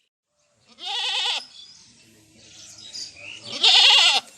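A goat bleating twice, two loud quavering calls about two and a half seconds apart.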